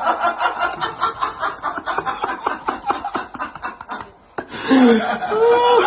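Hearty laughter in fast, even pulses for about four seconds, then a short, louder call with a gliding pitch near the end.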